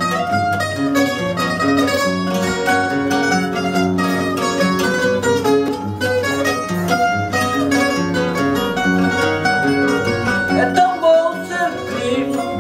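Fado instrumental introduction on plucked guitars: a quick, bright run of picked melody notes over a steady strummed bass accompaniment.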